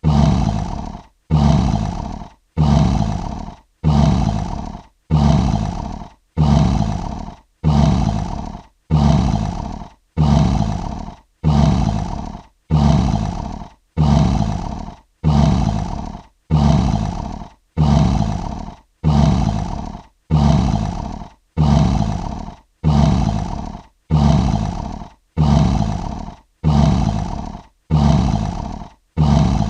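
Short lion roars repeated in an even, unchanging rhythm, about one every second and a quarter. Each roar starts sharply and fades within about a second, and every one is identical: a single roar sample looped.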